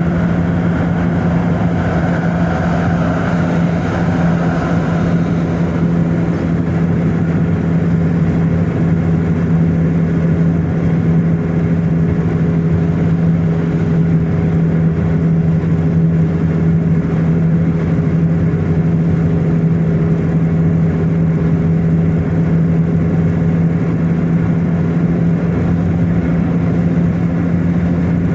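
A car driving at steady speed: constant engine and tyre noise with a steady low hum, and a slight swell of noise a few seconds in.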